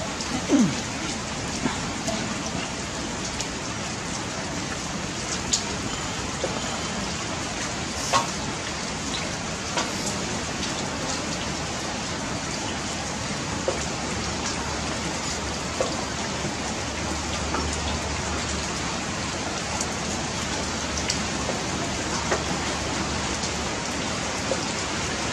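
Steady rain falling, an even hiss with scattered small ticks and clicks; a faint low hum joins in partway through.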